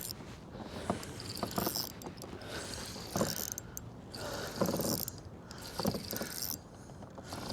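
Fishing reel being cranked in short spells with pauses between them, bringing in a big hooked smallmouth bass.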